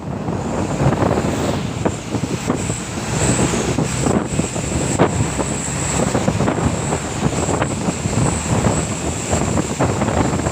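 Wind buffeting the microphone over the steady rumble of a moving road vehicle.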